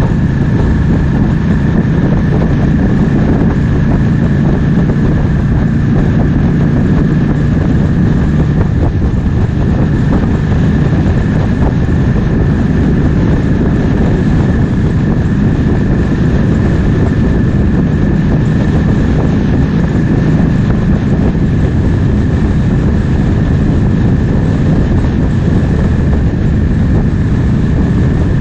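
Triumph Speed Twin 1200's parallel-twin engine running steadily at a cruise, mixed with the rush of wind past the rider.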